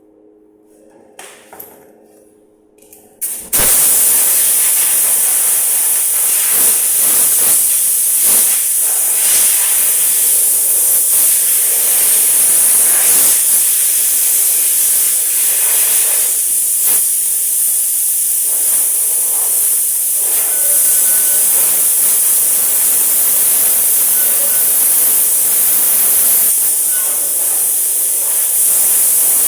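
Air spray gun spraying urethane paint: a loud, steady hiss of compressed air that starts about three and a half seconds in and keeps going.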